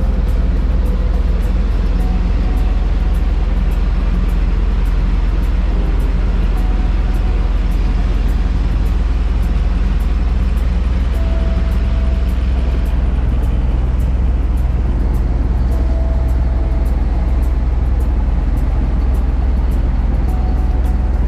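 Boat engine running steadily, a constant low rumble, with background music over it.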